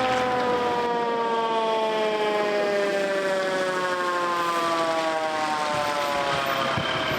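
Emergency vehicle siren, one long wail falling slowly and steadily in pitch, fading near the end.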